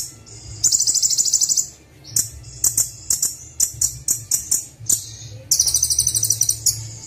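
Kolibri Wulung sunbird song from a birdsong training recording: a run of rapid, sharp, high-pitched chirps broken by two dense, buzzy trills of about a second each, one near the start and one about two-thirds of the way in. A faint low hum runs underneath.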